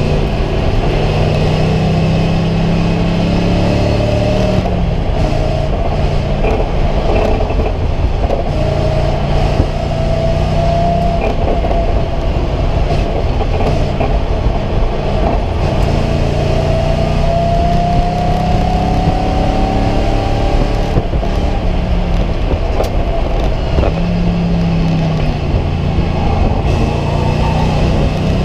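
Race car engine under hard acceleration, heard from inside the caged cabin: its pitch climbs steadily several times and drops back between climbs as the car shifts or slows for corners. A constant rush of road and wind noise runs underneath.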